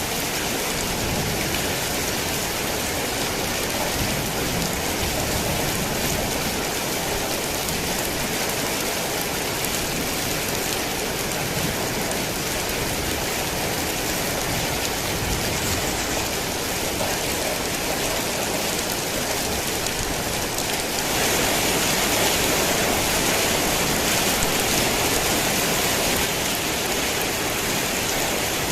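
Steady rain falling, an even hiss of drops with no thunder claps. About two-thirds of the way through it grows a little louder and brighter for several seconds, then eases back.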